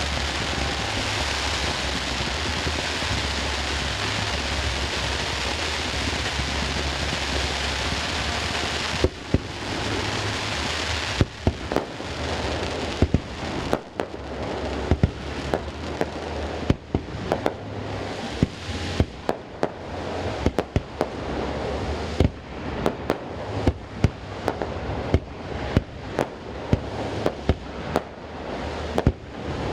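A steady rushing hiss for about nine seconds, then a rapid run of firework shell bursts: sharp bangs, often several a second, each trailed by echo from the surrounding mountains.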